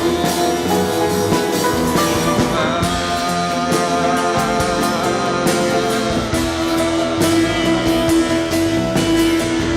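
Live rock band playing an instrumental stretch: guitars holding chords over a steady drum beat.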